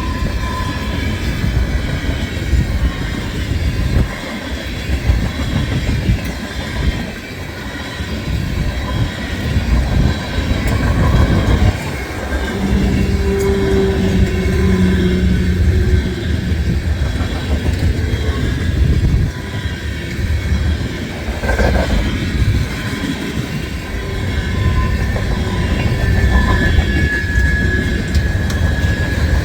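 Freight cars of a long manifest train rolling past at track speed, with steady wheel-on-rail noise and clatter. Brief squealing tones from the wheels come in twice, a lower one about halfway through and a high one near the end.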